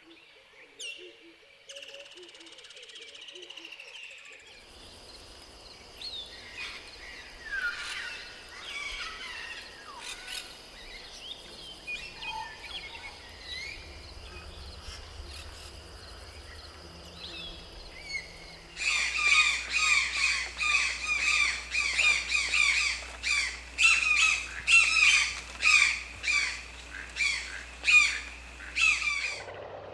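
Wild birds calling: scattered chirps and whistles over a steady high tone. From about two-thirds of the way through, a loud run of repeated, falling squawk-like calls comes about two a second, then stops suddenly near the end.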